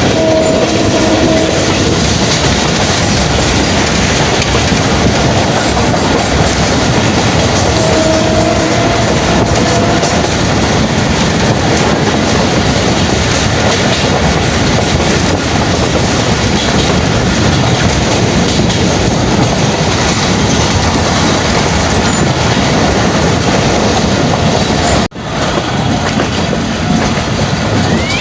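Karachi Circular Railway passenger train running along the track: a loud, steady rumble of wheels on rail with clickety-clack. Short steady high tones sound right at the start and again about eight seconds in. The sound cuts out for an instant near the end.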